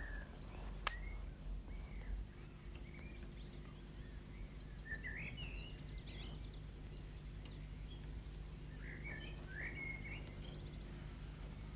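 Faint, scattered bird chirps over a steady low hum, with a single click about a second in.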